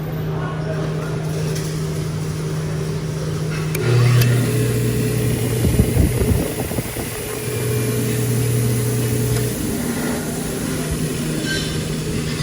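Bench grinder motor with a wire wheel switched on about four seconds in, running with a steady hum for around five seconds and then switched off. The repaired switch now works. A few irregular knocks come in the middle, and a steady lower background hum runs throughout.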